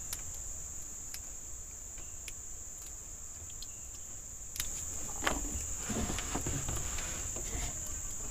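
Steady high-pitched chorus of jungle insects, with scattered small clicks and knocks that grow a little louder about halfway through.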